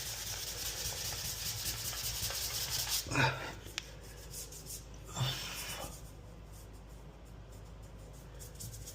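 Fine 220-grit sanding sponge rubbed by hand over a dried Bondo filler patch on a porcelain tub: a steady scratchy hiss for about three seconds, then two short separate strokes, then only faint rubbing.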